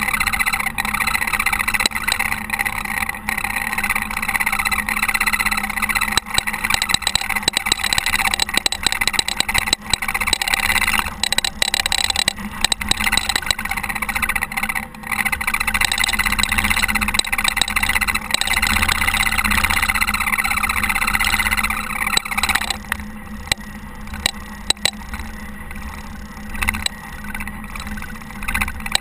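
Caterpillar TH330B telehandler running while plowing snow. A steady noisy sound with many short clicks and knocks drops in level about 22 seconds in.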